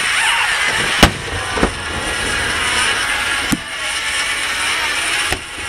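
Aerial firework shells bursting: four sharp bangs, the loudest about a second in, over a steady background noise.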